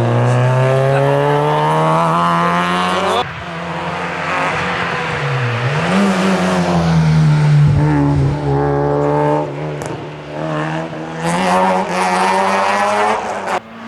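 Rally car engine at full throttle, rising in pitch and cutting off sharply at a gear change about three seconds in. It drops in pitch as the car slows around five seconds in, then revs up again and cuts off abruptly near the end.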